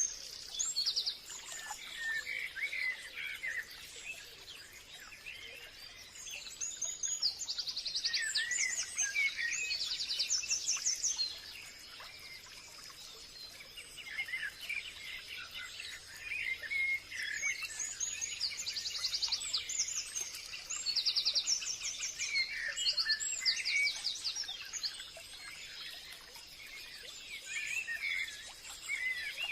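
Forest ambience of several songbirds singing and calling: rapid high trills and scattered chirps come in bouts every few seconds, with quieter spells between them, over a faint steady high-pitched hum.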